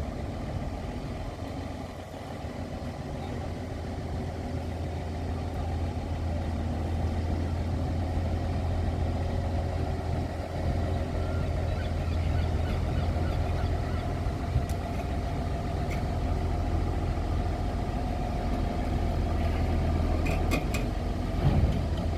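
A heavy vehicle running steadily with a low hum that grows slowly louder, with a few short clicks near the end.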